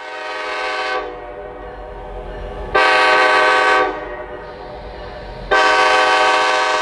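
Freight locomotive air horn sounding three blasts, a held one, a short one about three seconds in, and a long one that begins near the end, with the chord sounding faintly between them. The long, short, long pattern matches the end of the signal a train sounds approaching a grade crossing.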